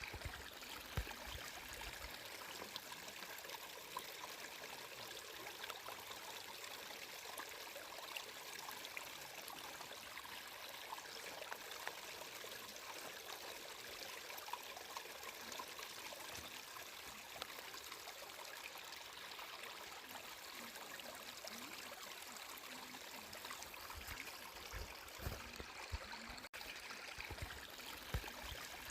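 Flowing water running steadily, with a fine trickling texture. A few soft low thumps come near the start and again late on.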